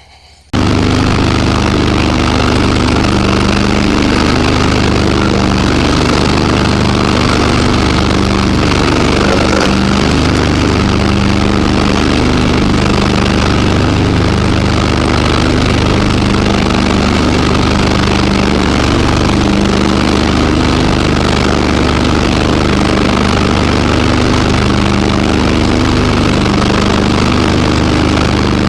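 Garden tractor engine running steadily and loudly. It cuts in abruptly about half a second in.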